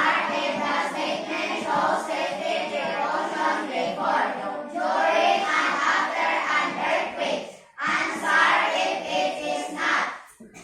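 A group of children singing together, with a short break about eight seconds in.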